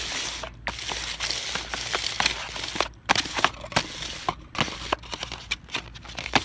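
Irregular crackling and sharp clicks over a steady low rumble.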